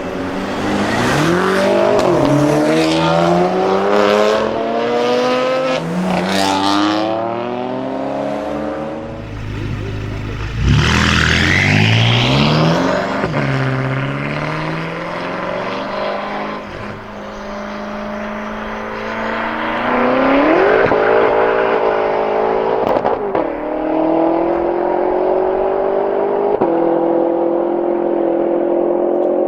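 BMW performance car engine accelerating hard through several quick upshifts, its pitch climbing and dropping back with each shift. About ten seconds in there is a sharp rising rev, then the engine settles into a steadier drone, climbing once more about twenty seconds in.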